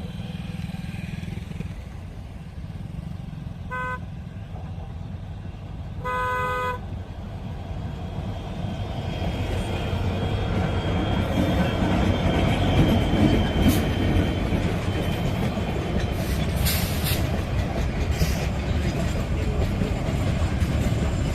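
A horn sounds twice, first a short toot and then a longer blast, followed by the rumble of an approaching goods train that grows steadily louder, with a few metallic clanks near the end.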